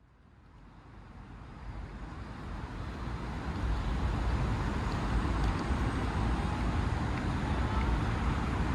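City road-traffic noise, a steady mix of low rumble and hiss from passing vehicles, fading in from silence over the first few seconds.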